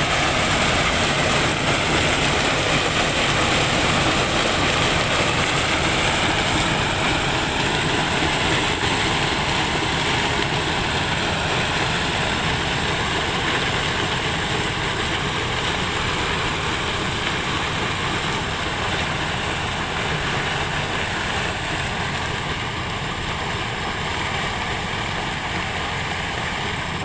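Diesel engine of a heavy land-clearing machine running steadily as it works the plot.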